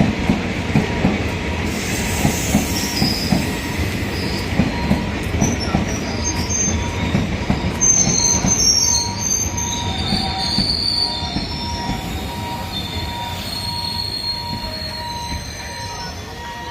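Express train hauled by a WAG-7 electric locomotive pulling into a station. Its wheels clack regularly over the rail joints, then high-pitched wheel and brake squeals come in as it slows, and the sound eases off near the end.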